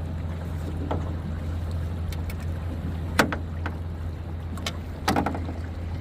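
A steady low hum on a boat with several sharp knocks and clatters on the hull. The loudest knock comes about three seconds in, and a short cluster follows near the end.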